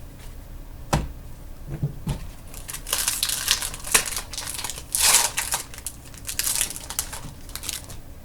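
A foil trading card pack being torn open and its wrapper crinkled, with a single knock on the table about a second in.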